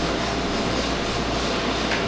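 Recorded train sound effect: the steady running noise of a train on the rails.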